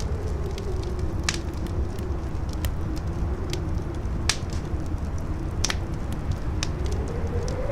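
Howling wind in a wavering whistle that rises near the end, over a deep rumble, with a fire crackling in sharp pops about once a second.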